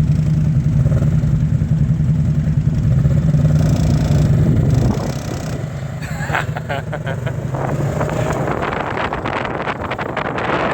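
Motorcycle engine running steadily close by, then dropping in level about five seconds in and going on with a rougher, rattling sound.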